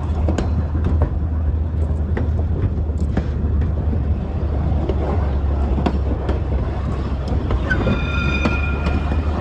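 2000 class diesel railmotor running along the line: a steady low engine drone with irregular clicks and knocks from the wheels over the track. A brief high-pitched squeal comes about eight seconds in.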